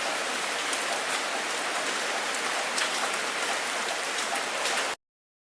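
Steady rain falling on a surface, a dense even hiss flecked with individual drop ticks. It cuts off abruptly about five seconds in, leaving silence.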